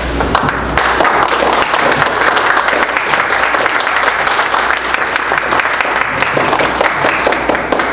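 A congregation applauding: many hands clapping together, swelling just after the start and fading near the end.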